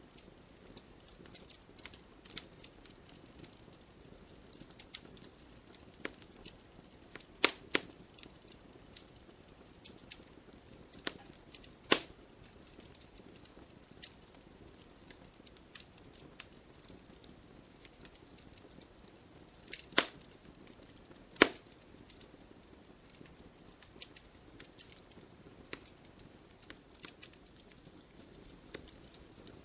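Wood fire crackling: a soft steady hiss with frequent small irregular crackles and a few loud sharp pops, two close together about seven seconds in, one about twelve seconds in, and two about twenty seconds in.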